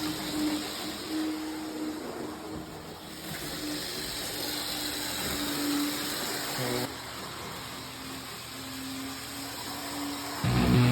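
Rock Island model train locomotive's small electric motor humming unsteadily, with wheels running on the track, as it labors to pull freight cars up a grade.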